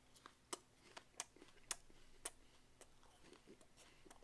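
Faint crunching of a person chewing a mouthful of raw apple, a string of short crisp crunches about half a second apart that thin out after about three seconds.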